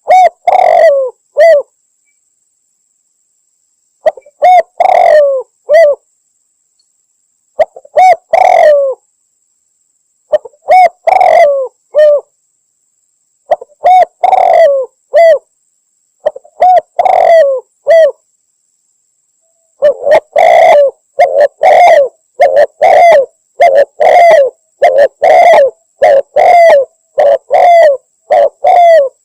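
Spotted dove cooing, a recording used as a hunting lure to call males in: groups of three or four coos about every three to four seconds, then, about two-thirds of the way through, a faster, almost unbroken string of coos.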